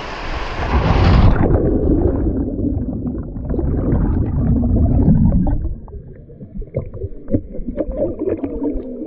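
Waterfall rushing water, then a cut to a loud, muffled rumbling gurgle of water as heard underwater after a jump into the plunge pool. The rumble fades about six seconds in to quieter gurgling with scattered small clicks.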